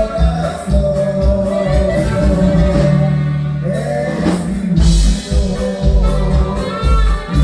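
Norteño band music with a singer, over a steady bass line and drums.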